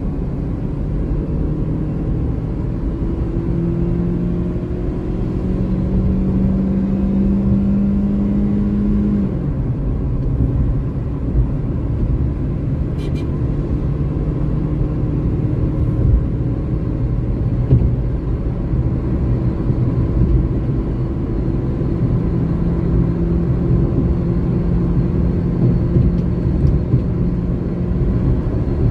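Car engine heard from inside the cabin, pulling hard as the car accelerates to highway speed. Its pitch climbs for about nine seconds, drops sharply once at an upshift, then climbs slowly again over steady road and tyre rumble.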